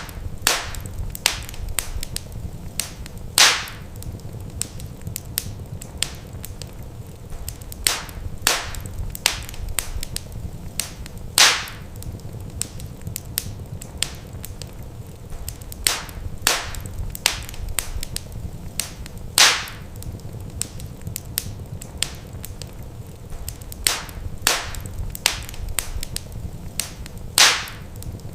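Wood fire crackling in a fireplace: irregular sharp snaps and pops over a steady low rumble, with four louder pops spaced about eight seconds apart.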